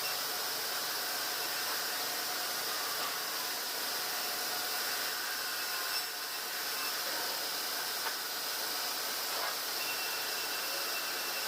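Steady hissing noise of sawmill machinery running, with a faint steady whine through it and a brief dip about halfway through.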